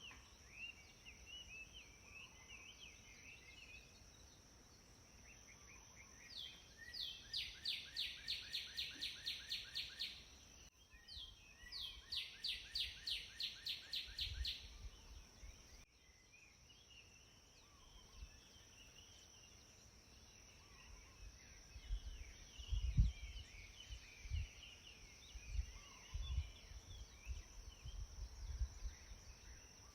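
Songbird singing two long runs of quick, evenly repeated notes, about four a second, among softer scattered chirps, over a steady high-pitched note. Low rumbles and thumps come in during the second half.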